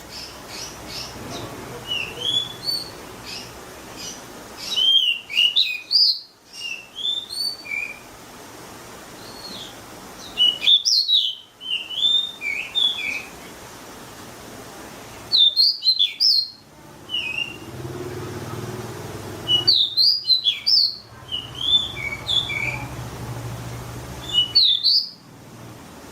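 A songbird singing: loud phrases of quick rising and falling notes about every five seconds, with softer chirps in between.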